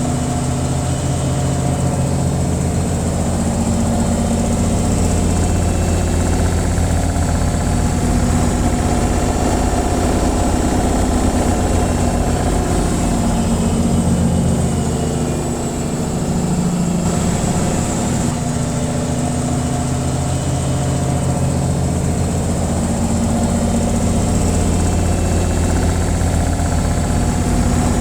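Washing machine on its spin cycle: a steady, loud mechanical drone with a low hum that wavers slightly in pitch, dipping briefly about halfway through.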